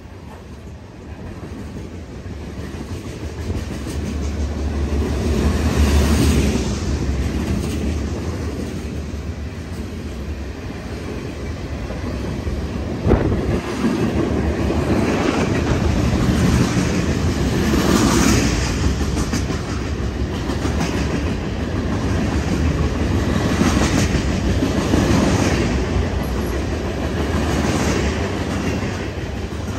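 A heavy freight train's covered hoppers and lumber cars rolling past at speed: a steady rumble of steel wheels on rail with repeated clacks as wheel sets cross rail joints. It grows louder over the first few seconds, with one sharp clack about halfway through.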